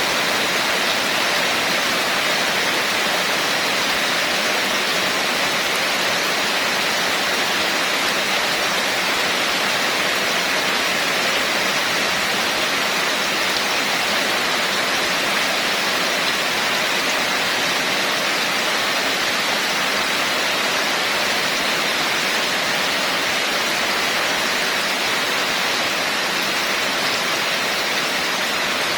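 Heavy rain falling steadily: an even, unbroken hiss without separate drops standing out.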